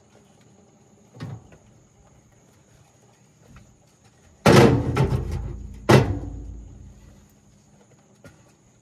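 Loud clanks as metal hand tools are handled: a light knock about a second in, then a quick cluster of heavy clanks about four and a half seconds in and one more loud clank a second later, each ringing out briefly.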